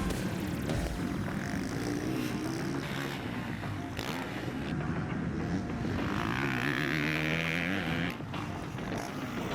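Honda CRF four-stroke dirt bike engines revving on a motocross track, their pitch rising and falling as the throttle is worked.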